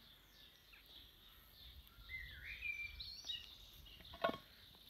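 Faint outdoor birdsong: a few rising and falling chirps about two to three seconds in, over a low rumble. One sharp click about four seconds in is the loudest sound.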